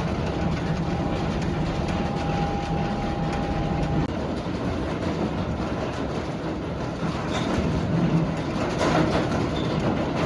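Scania R530 heavy truck running, a steady rumble with a faint whine over the first few seconds.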